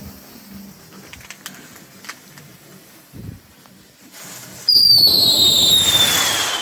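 Brothers Pyrotechnics shrieker firework going off: after a few faint crackles, a sudden, loud, piercing shriek starts near the end over a rushing hiss, its pitch sliding slowly downward.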